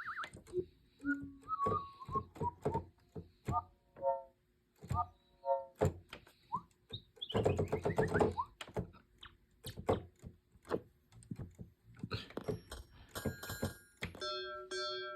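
Yamaha DX7 FM synthesizer playing cartridge patches: a run of short percussive knocks and clicks mixed with brief pitched blips, a falling sweep about halfway through, then a held pitched tone starting near the end.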